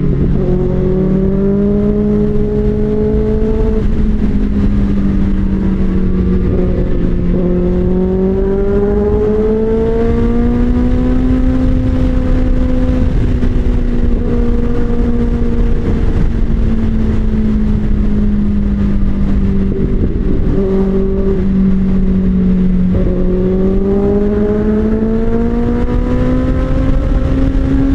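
Kawasaki Ninja ZX-6R's 636cc inline-four running at highway speed under a smooth throttle pull, the engine note rising a little after eight seconds in, settling, then climbing again near the end during an overtake. A steady rush of wind and road noise runs beneath it.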